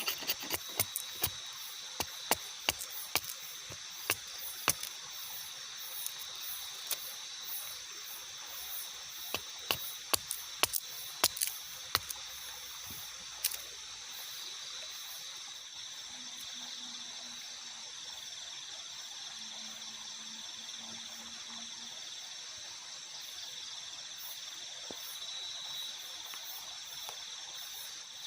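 Steady chorus of night insects, a constant high two-pitched buzz. Irregular sharp taps or knocks come thickly in the first half and then thin out.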